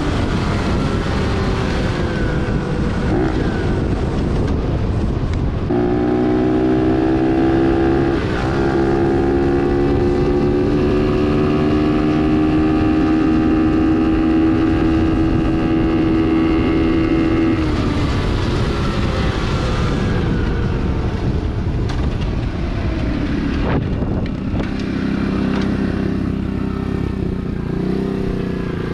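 125cc single-cylinder pit bike engine running hard at speed, its revs climbing slowly for about ten seconds and then falling as the throttle closes, with wind noise.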